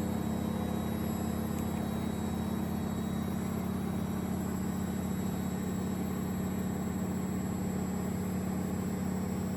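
Gorenje WA72147 washing machine running, its Selni brushed motor, fitted with new carbon brushes, giving a steady even hum.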